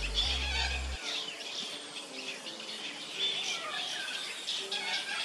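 A colony of fairy martins twittering, many short overlapping chirps. Soft background music runs underneath, and its low bass drops out about a second in.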